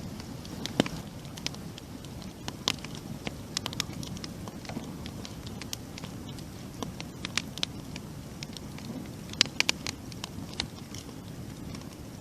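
Wood campfire burning: a steady low rush of flame with irregular sharp crackles and pops, a quick cluster of them near the end.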